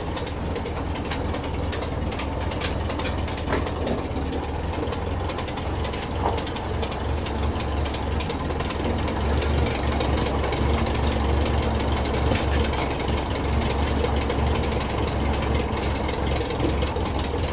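Ford 2N tractor's four-cylinder flathead engine running steadily at low revs, a deep even rumble with faint ticking over it.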